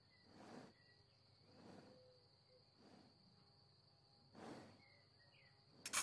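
Faint outdoor ambience: a steady high insect drone, with four soft puffs of breathy noise spaced a second or more apart.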